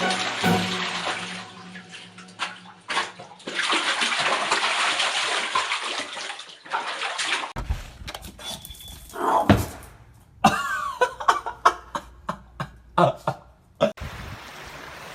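Water running steadily with an even hiss, as from a tap filling a bathtub. About seven seconds in it gives way to a string of sharp knocks and splashes.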